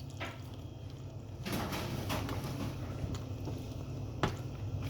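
Soft eating sounds: chewing and mouth noise, with a single sharp click about four seconds in, over a steady low hum.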